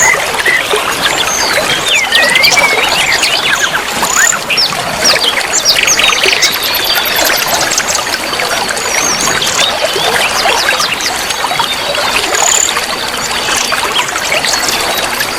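Many small songbirds chirping and twittering together in a dense chorus over trickling running water. A thin, steady high tone runs through the middle stretch.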